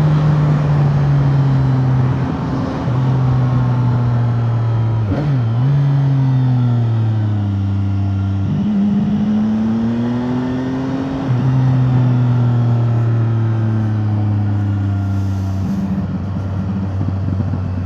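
The CFMoto 675NK's 674 cc three-cylinder engine running under way, its exhaust note mostly steady. The pitch dips sharply and recovers about five seconds in, then shifts down and up several times, climbing slowly around the middle.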